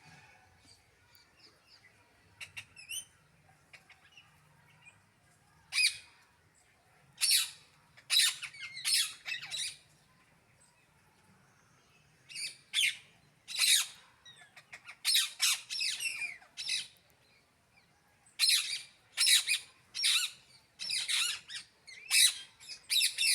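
Birds calling with loud, harsh squawks that come in clusters with short pauses between, after about five seconds of only faint high chirps.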